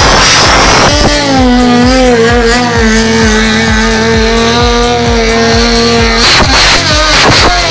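Motorcycle engine revved and then held at high, steady revs with tyre squeal, as in a burnout, over music with a steady beat. The held engine note stops about six seconds in.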